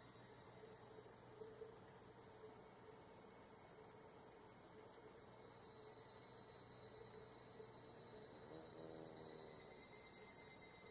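Higurashi (evening cicadas) calling in chorus: a steady high shrill with a pulse repeating about one and a half times a second, and a call that grows louder near the end.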